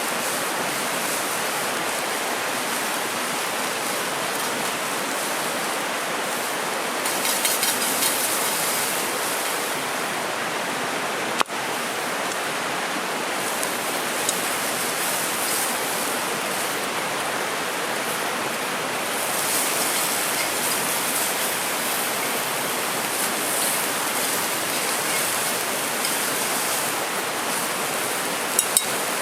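Mountain river rushing steadily over rocks, the Doshi River flowing past the campsite. There is a single sharp click about eleven seconds in and two brief ticks near the end.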